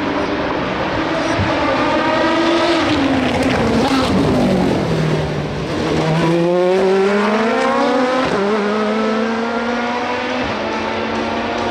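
Prototype and GT race car engines at a trackside corner. One car's engine note falls away as it slows and passes, then another's climbs as it accelerates up through the gears, with an upshift a little past the middle.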